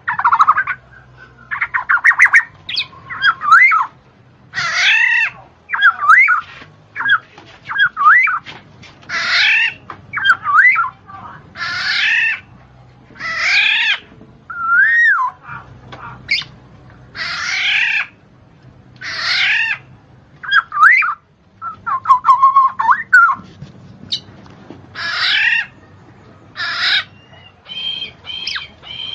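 A bird calling over and over, loud and close, one call about every second or two, each a quick run of sweeping high notes.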